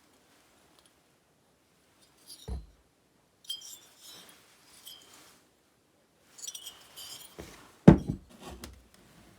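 Small hard objects clinking and jangling as they are handled and set down, with a dull thud about two and a half seconds in and a louder knock near the end.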